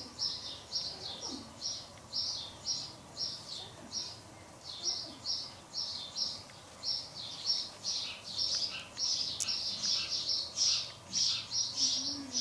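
A small bird chirping over and over, short high chirps at an even pace of two or three a second.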